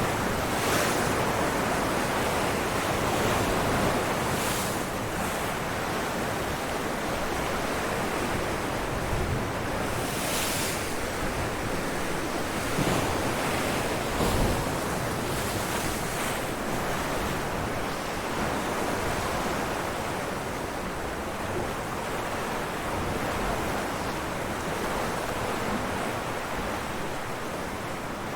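Ocean waves breaking against rocks: a continuous rush of surf with brief surges every few seconds as waves hit, some wind noise on the microphone.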